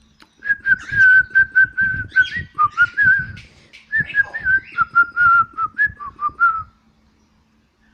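A whistled tune of wavering notes near one pitch, in two phrases with a short break in the middle, over soft, irregular low thumps.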